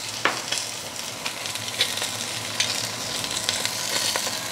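Food frying in hot oil in a pan: a steady sizzle with frequent sharp pops and crackles of spitting fat.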